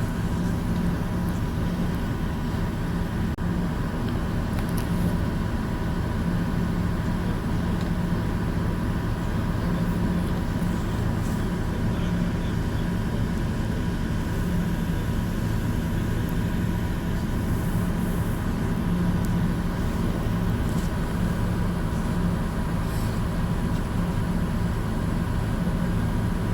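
Steady low engine drone and hum heard from inside a moving city bus, holding even throughout.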